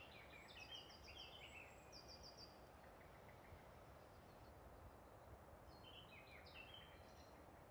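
Near silence: faint outdoor ambience with a few faint, high bird chirps in two short groups, one near the start and one about six seconds in.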